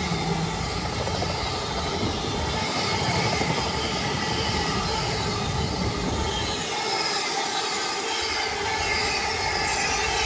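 Freight train headed by a Class 66 diesel locomotive passing through, with the steady rolling noise of its wagons. The low rumble thins out about seven seconds in while the higher running noise carries on.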